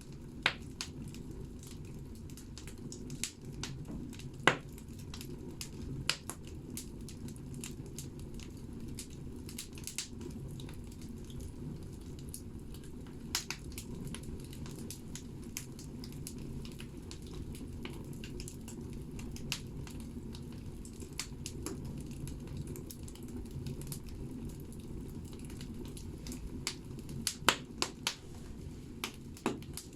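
Firewood burning in a banya (sauna) wood stove: a steady low rumble of the fire with frequent sharp crackles and pops, and a cluster of louder pops near the end.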